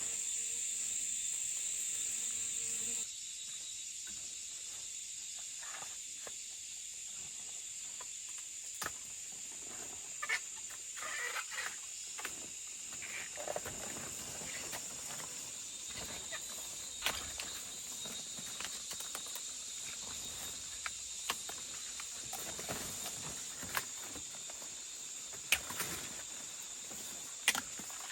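Steady high-pitched chorus of crickets or other insects, with scattered light clicks and rustles over it. The chorus drops in level about three seconds in.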